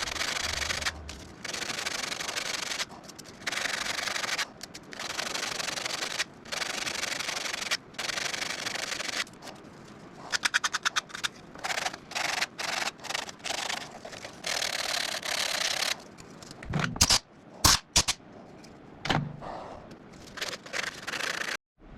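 Abrasive sanding against a mesquite bowl turning on a wood lathe, pressed on in passes of one to two seconds with short breaks between them. A quick run of ticks comes about halfway through, and a few sharp knocks come near the end.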